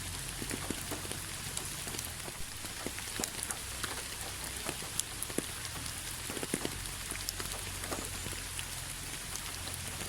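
Steady rain falling on a surface, a constant hiss with many separate drops ticking and pattering throughout.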